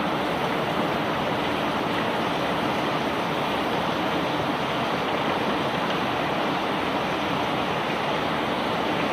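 Conveyor belt carrying rock, a steady, even rushing noise without distinct knocks.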